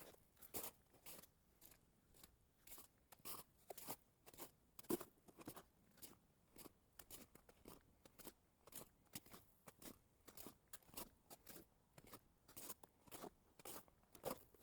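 Faint footsteps crunching over snowy ground at a steady walking pace, about two steps a second.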